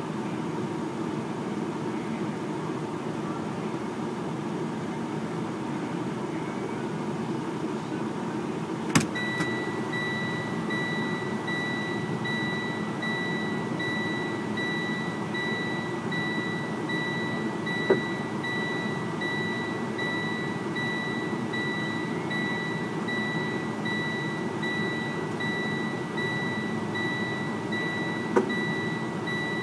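Steady engine and road noise of a moving vehicle heard from inside the cab. About a third of the way in, a click is followed by a continuous high-pitched beep that holds on, with two more single clicks later.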